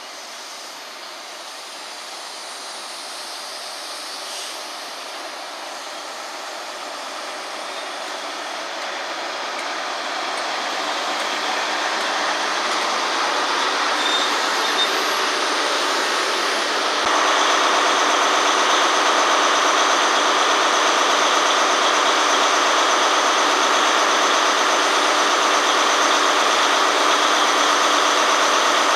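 A diesel train approaching and passing, growing steadily louder over about twelve seconds, then running past at full level with steady whining tones over rail noise, until the sound cuts off abruptly.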